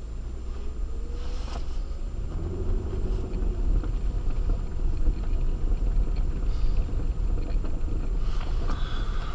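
Acura MDX driving on a snow-covered road on Sumitomo Ice Edge winter tyres: a steady low rumble of tyres and engine that grows a little louder about two seconds in, with a faint engine tone rising and falling.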